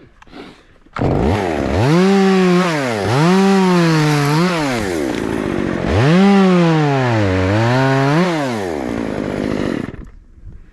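Chainsaw cutting a limb: the engine runs at high revs and its pitch dips and recovers several times as the chain bites into the wood. It starts about a second in and stops near the end.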